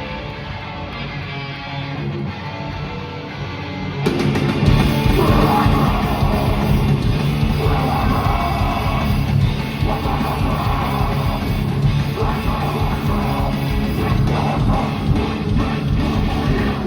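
Metal band playing live: a guitar part alone for about four seconds, then the full band comes in with drums and distorted guitars, with vocals over it in phrases.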